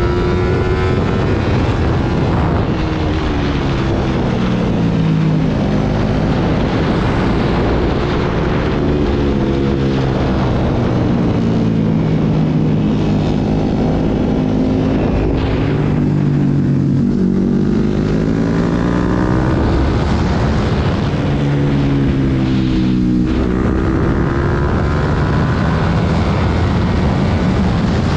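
Sport motorcycle engine heard from the bike itself, revving hard with its pitch repeatedly climbing and falling, with wind noise on the microphone.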